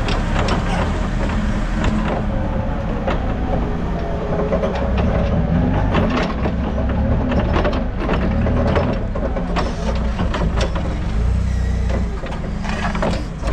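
A vehicle engine running steadily, with scattered sharp knocks and clanks throughout.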